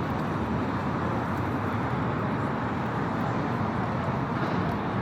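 Steady city street traffic noise, an even wash of passing cars with no single event standing out.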